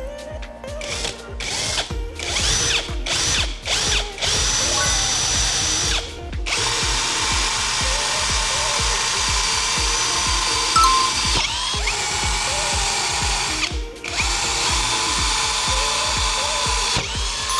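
Electric drill running: a few short trigger bursts at first, then long steady runs with a high whine, stopping briefly twice, over background music with a steady beat.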